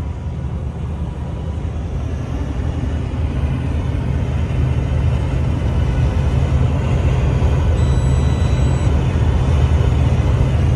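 Heavy truck's engine and road noise heard from inside the cab while driving: a steady low rumble that grows slightly louder over the seconds.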